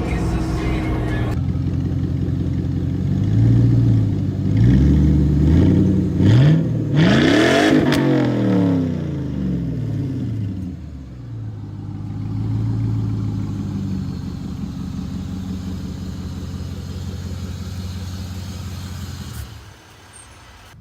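Car engine revving, its pitch rising and falling several times, then settling into a steady run that drops away near the end.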